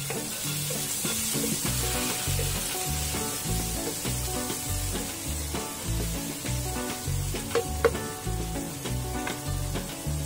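Chopped onion, garlic and ginger sizzling in hot oil in a nonstick wok, with a wooden spatula stirring and scraping them around the pan. One sharp knock stands out about eight seconds in.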